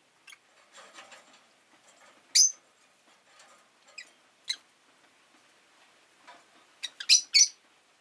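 Rosy-faced lovebirds giving short, sharp, high chirps: one loud call about two and a half seconds in, two lighter ones a little later, and a quick burst of three or four near the end, with soft chatter between.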